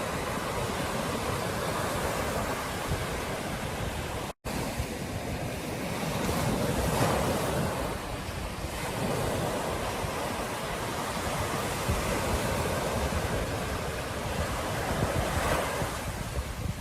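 Ocean surf washing onto a beach in a steady rush that swells and eases, with wind buffeting the microphone. About four seconds in, the sound drops out for a split second.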